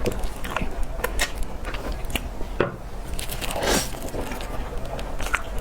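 Close-miked eating of cake: bites and chewing with many short, sticky mouth clicks, and one longer, louder sound about three and a half seconds in.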